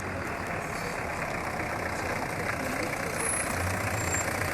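Steady engine and road noise of a tour bus on the move, heard from inside, with a low hum under it.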